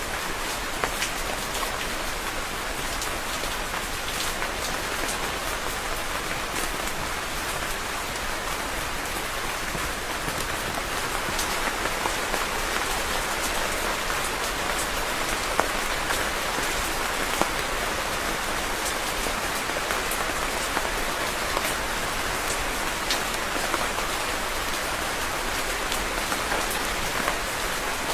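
Steady rain falling on a surface, an even hiss with many separate drop ticks scattered through it, getting slightly louder about eleven seconds in.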